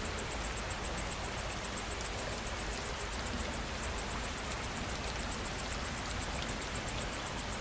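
Steady rain falling, with an insect chirping high and fast in the background, about eight pulses a second, pausing briefly near the middle.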